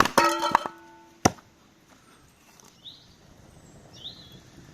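Firewood being chopped: a sharp blow, a quick rattle of knocks with a brief metallic ring, and a second sharp blow about a second in. A small bird then chirps a few times near the end.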